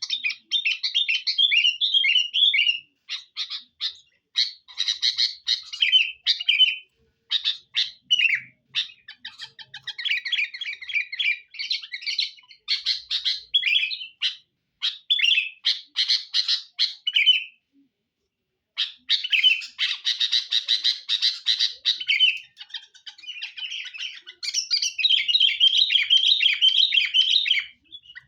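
Sooty-headed bulbul (kutilang) singing non-stop: rapid runs of bright chirps and warbled phrases with only brief breaks, the busy 'gacor' song used as a lure call to draw in other bulbuls.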